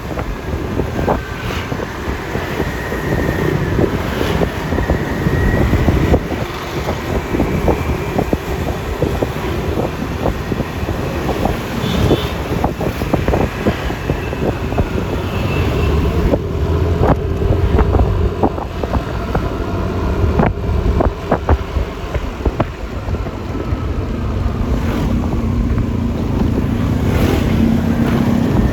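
Riding on a Yamaha Lexi LX 155 single-cylinder scooter: engine and road noise with wind buffeting the microphone in short knocks, and traffic around. Near the end the engine tone rises slightly and the sound grows louder as the scooter speeds up.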